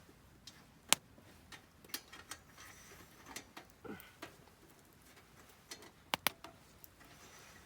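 Wood campfire crackling, with sparse sharp pops at irregular moments over a quiet background and a short upward-gliding squeak about four seconds in.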